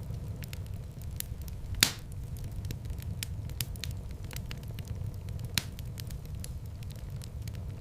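Wood fire in a fireplace crackling, with a steady low rumble of flame and a constant scatter of small snaps. Two louder pops stand out, one about two seconds in and one past the middle.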